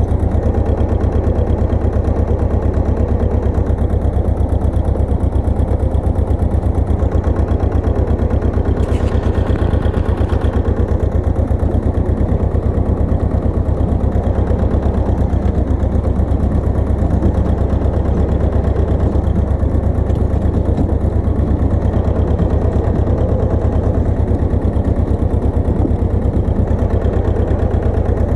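Pasquali 980 EX two-wheel tractor engine running steadily with an even, fast low pulse, with a brief higher rushing noise about nine seconds in.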